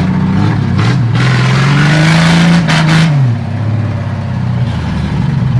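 Chevrolet 400 straight-six on an open, unmuffled exhaust revved once from idle: the note climbs about a second in, holds for about two seconds, then drops back to idle. The owner still hears a slight knock from the engine.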